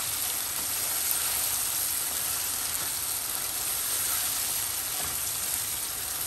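Chicken, tomatoes and spice masala sizzling steadily in oil in a non-stick wok while a wooden spatula stirs them. This is the bhuna stage, frying until the tomato skin and pulp separate.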